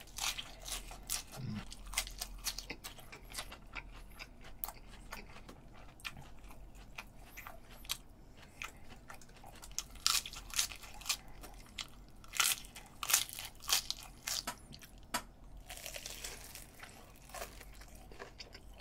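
Close-miked chewing and crunching of crisp raw lettuce, in quick crackling bites that come thickest about ten seconds in and again a little later.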